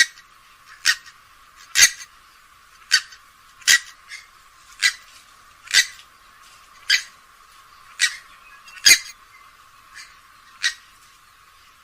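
Grey-headed swamphen giving a series of short, sharp calls, about one a second, eleven in all, the last a little over a second before the end.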